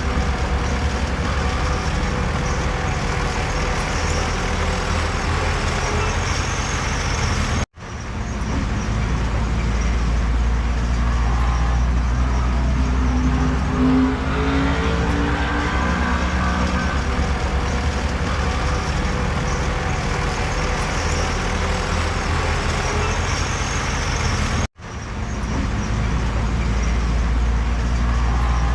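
Heavy diesel earthmoving machinery running, a steady low engine rumble whose tones shift a little as the load changes. The sound cuts out abruptly twice, about 8 and 25 seconds in, and swells back each time.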